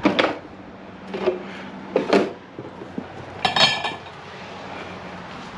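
Electric fence clicking with each pulse from the charger, four sharp clicks about a second apart, the last ringing briefly; the pulse is weaker than it should be, which the owner puts down to a short somewhere on the fence line.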